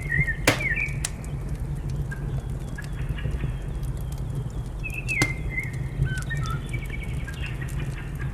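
Wood fire crackling with scattered snaps, two loud pops about half a second and five seconds in, over a steady low rumble, while small birds chirp short calls in the background.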